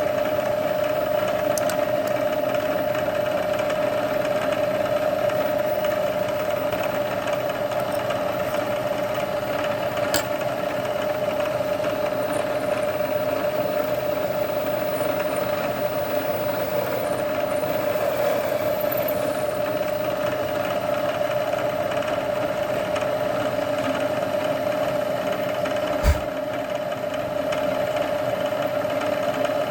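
Machine-tool spindle running steadily with an even hum while a centre drill cuts to depth in a steel part. A single sharp knock comes near the end.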